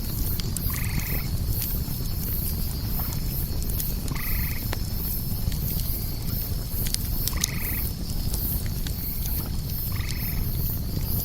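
A frog croaking four times, about three seconds apart, over a bonfire crackling with sharp pops and a low steady rumble. A high pulsing chirp repeats throughout.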